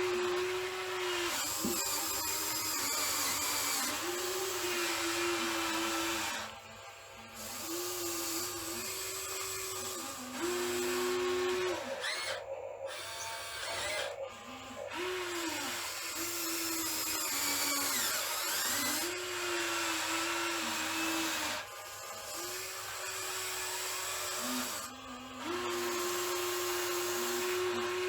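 Small electric motors of radio-controlled model construction machines whining in repeated short runs, each starting and stopping every second or two and shifting in pitch as the load changes.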